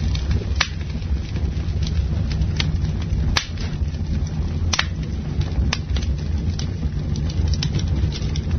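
Campfire burning: a steady low rumble with sharp crackles and pops from the burning wood scattered through it, a handful of them louder.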